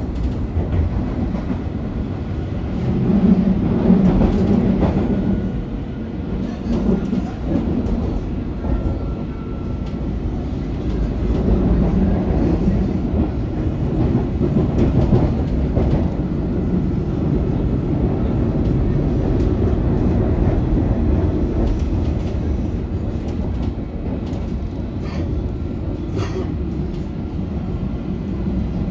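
London Underground District line train running at speed, with a continuous rumble of wheels on track that swells and eases as it takes curves. A brief thin squeal comes about nine seconds in, and a few sharp clicks from the track near the end.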